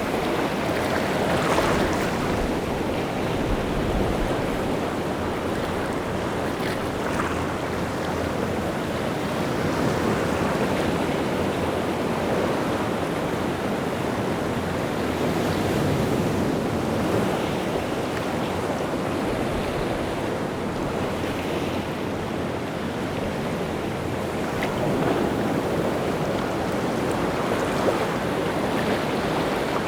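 Rough sea surf breaking in a continuous wash, the waves churned up by wind, with swells in loudness now and then.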